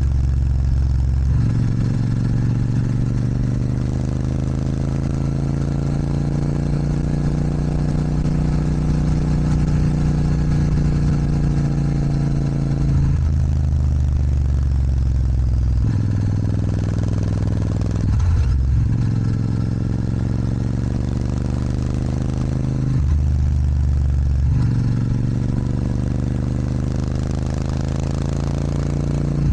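Royal Enfield Super Meteor 650 parallel-twin engine through a Rhino Racing sports exhaust, under way. Its note climbs slowly and steadily, then drops suddenly several times and picks up again as the throttle is rolled off and reopened.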